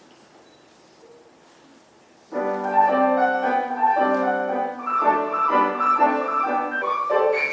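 A low room hush for about two seconds, then a piano comes in suddenly with classical music played in full chords.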